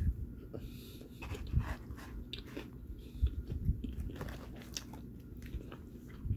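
A person biting into and chewing a spicy fried chicken sandwich close to the microphone, with irregular short sharp clicks.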